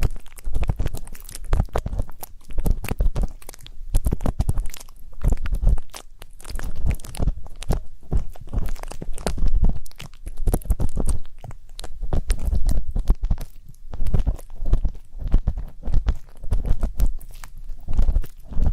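Ear pick scraping and scratching against a microphone's ear: a dense, irregular run of crackly strokes and clicks with soft low thumps, with no pause.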